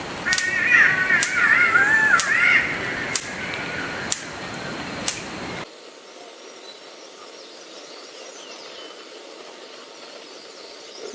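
Birds calling: a burst of pitched, wavering calls lasting about two seconds near the start, with short clicks about once a second. The sound cuts off abruptly about five and a half seconds in, leaving a quieter steady hiss.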